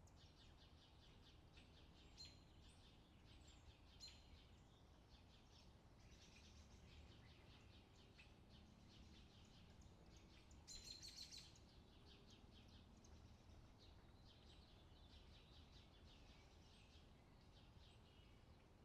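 Faint outdoor summer ambience of small birds chirping continuously, with a louder run of chirps about eleven seconds in.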